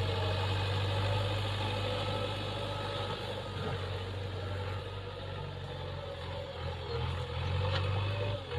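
Heavy diesel engine of earthmoving and farm machinery running steadily, easing off slightly in the middle and picking up again near the end.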